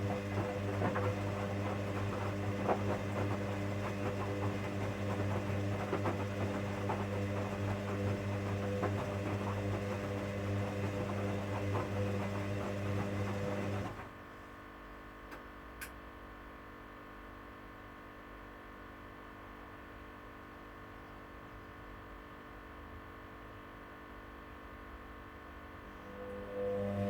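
Hoover washing machine on its Daily 59-minute wash: the motor turns the drum with a steady hum and light ticks, stops abruptly about halfway through, leaving a faint hum with a couple of clicks during the pause, and starts turning again near the end.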